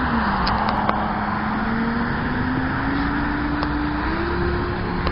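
A car engine running at a fairly steady speed: its note drops in the first half second, then slowly climbs, stepping up slightly near the end.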